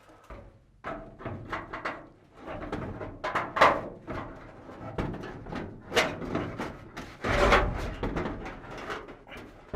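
Irregular knocks, clunks and scrapes of an aluminium wing flap being handled and manoeuvred out of a Cessna 172's cabin, busiest about three-quarters of the way through.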